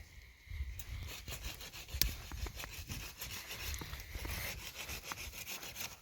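Hand saw cutting through firewood, a continuous scratchy rasping of strokes, with one sharp knock about two seconds in.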